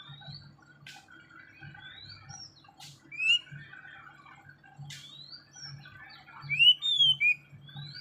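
A small bird chirping: short rising chirps, the loudest a little over three seconds in and a quick run of them near the end. A few sharp clicks fall among them.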